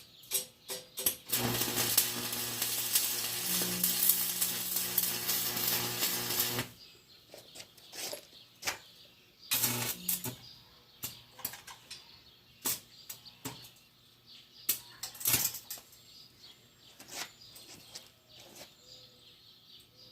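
Arc welder laying a bead on thin steel: a steady hiss with a hum for about five seconds, then a second short burst of welding, followed by scattered light clicks and taps.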